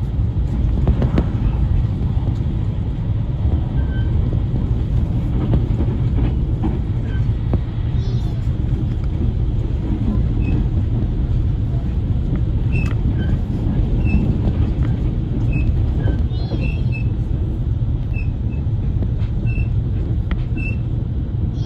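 JR train running, a steady low rumble of the moving train, with faint short high chirps scattered through the second half.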